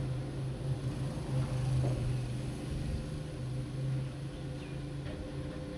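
Stick welding machine switched on and idling with a steady hum.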